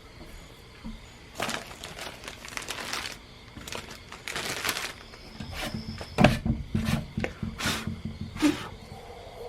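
Rustling and crinkling, then a run of sharp knocks and clatter over a low hum in the second half.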